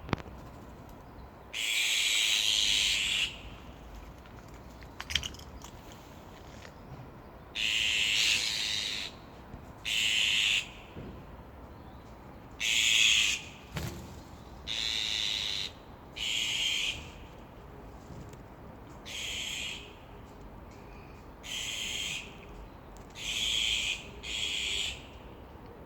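Azure-winged magpies giving harsh, rasping calls, about nine in a row, each half a second to a second and a half long and a few seconds apart: the calls of parent birds guarding a young bird that has just left the nest.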